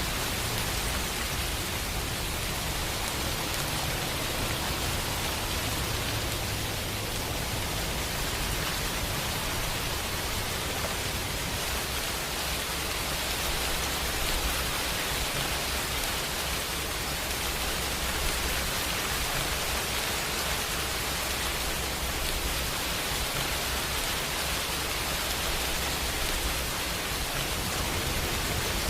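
Steady rain falling: an even, unbroken hiss with a low rumble beneath it.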